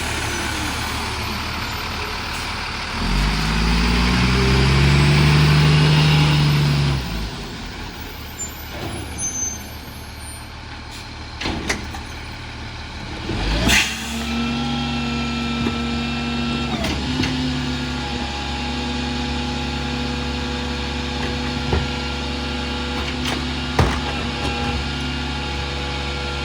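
Freightliner garbage truck with a Heil rear-loader body, its diesel engine revving up for about four seconds and then dropping back. About halfway through comes a sudden sharp noise, and after it the truck runs with a steady even hum.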